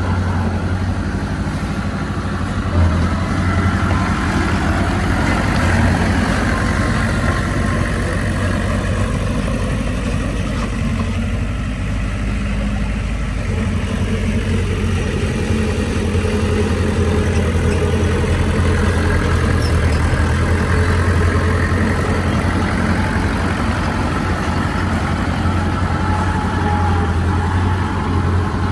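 Heavy diesel engine of earthmoving machinery running steadily under load, its note dipping and rising again through the middle. A single knock about three seconds in.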